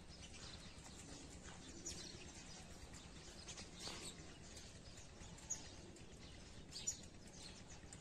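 A few faint, short bird chirps, scattered and irregular, over a quiet background.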